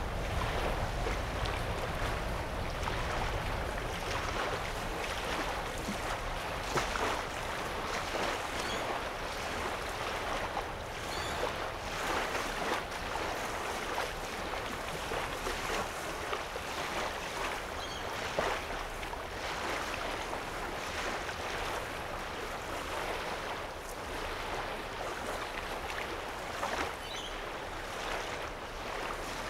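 Small waves lapping on a lake shore: a steady wash of water with many little splashes. There is a low rumble during the first few seconds.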